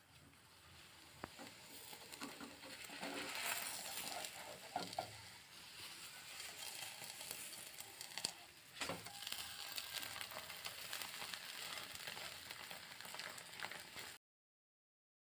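Paratha frying in oil in a nonstick pan: a steady sizzle that builds over the first few seconds, with a few sharp taps of a plastic spatula against the pan. The sound cuts off abruptly about a second before the end.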